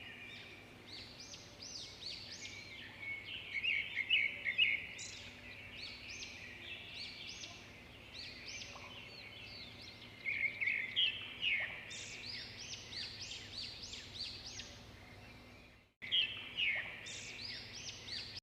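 A flock of small birds chirping and calling all at once, with many quick, overlapping falling chirps. The sound swells around four seconds in and again around ten seconds in, and cuts out for a moment near the end.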